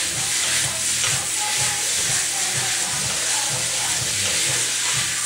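Chicken stir-frying in hot oil in a pan: a steady sizzle, with a regular low music beat about twice a second underneath.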